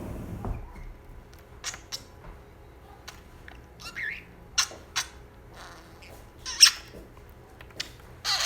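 Pet budgerigar giving a series of short, sharp chirps and squawks at irregular intervals, the loudest about six and a half seconds in.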